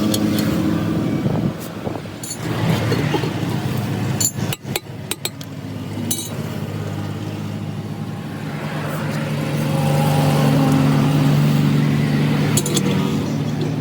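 A motor or engine running steadily, growing a little louder and higher past the middle, with a few sharp metallic clinks.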